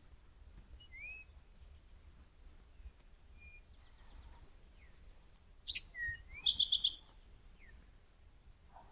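Wild songbirds calling in the forest: scattered short chirps and whistles, with the loudest call a quick run of repeated notes about six seconds in.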